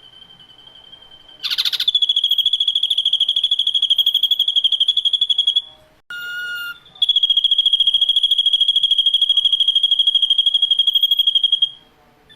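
Ashy drongo song: two long, loud, very rapid trills at one steady high pitch, each about four seconds, with a short different call between them. A faint thin high tone comes before the first trill starts.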